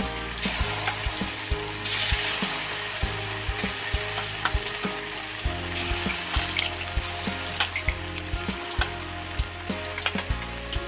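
Battered chicken pieces sizzling as they deep-fry in hot oil in a steel kadai, the hiss surging about two seconds in as fresh pieces go into the oil. Background music with a beat plays underneath.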